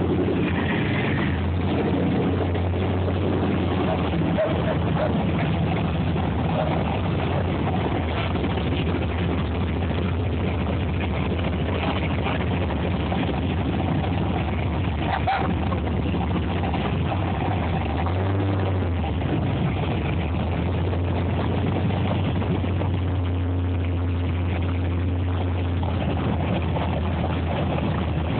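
Classic cars and hot rods rolling slowly past through an intersection, their engines running with a steady low rumble that dips briefly about two-thirds of the way through.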